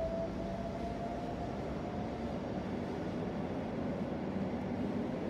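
SNCB AM75 electric multiple unit pulling away from the platform at low speed. A steady rumble is joined by a faint whine that rises slightly in pitch over the first couple of seconds as the train gathers speed, then fades.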